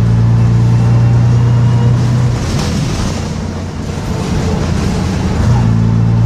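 Bristol RELL6L bus engine pulling with a strong, steady drone. A little over two seconds in, the steady note breaks up and drops back for about three seconds, then a steady pull returns near the end.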